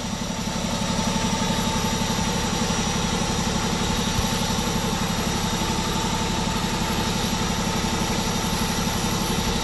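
Vehicle engine idling steadily, an even low throb with a faint steady whine over it.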